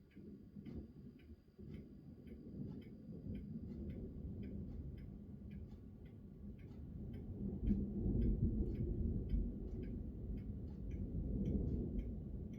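Rolling thunder: a low rumble that begins suddenly, swells and is loudest about eight seconds in, then rumbles on. A steady ticking, about three ticks a second, runs underneath.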